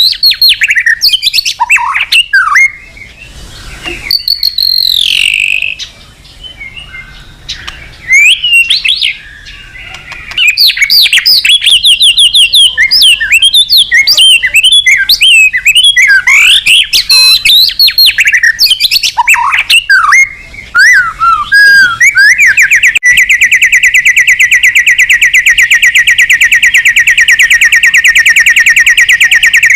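White-rumped shama singing loudly: a fast, varied run of whistles and chirps with a few short pauses, then, about two-thirds of the way through, a long rapid even trill held to the end.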